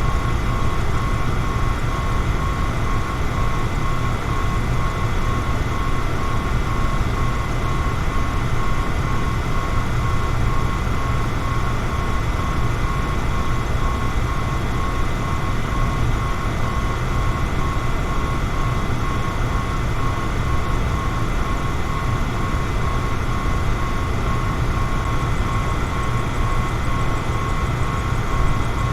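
Electric fan running steadily: an even rush of air with a low hum and a faint constant whine.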